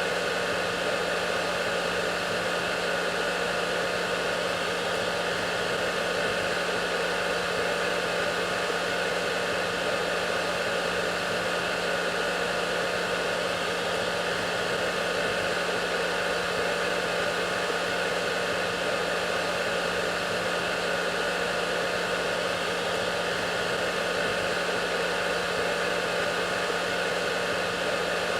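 Hair dryer running steadily: a constant rush of blown air with a steady low hum from its motor and a faint whine above it, unchanging throughout.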